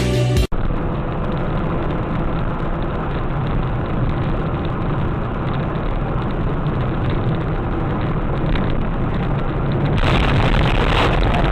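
Steady noise of a car on the road. About ten seconds in it switches sharply to a brighter, hissier noise.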